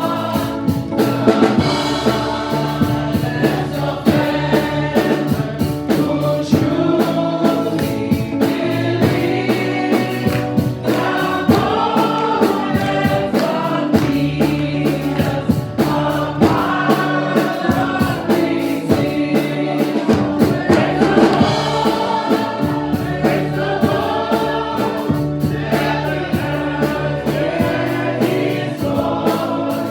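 Gospel praise-and-worship music: a choir singing over a band with a steady beat and a sustained bass line.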